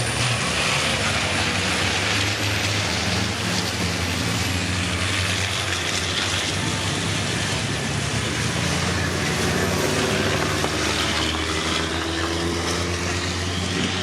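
Turbo-diesel racing trucks running hard on the circuit: a steady, loud engine drone, with engine pitch rising in the last few seconds as they accelerate.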